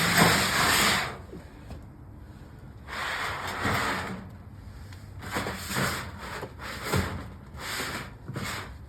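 Scraping and rubbing in about five separate bursts, each up to a second long, with a sharp knock about seven seconds in; the sound of things being shifted and dragged about.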